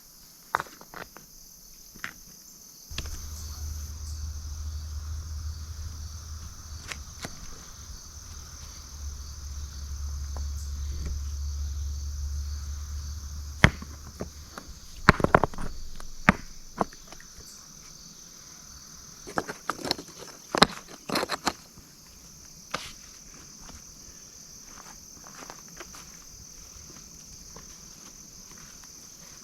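Stones knocking and clacking as rocks are set into a dry-stacked stone wall, in scattered clusters of sharp knocks, over steady chirring of crickets. A low rumble runs through the first half.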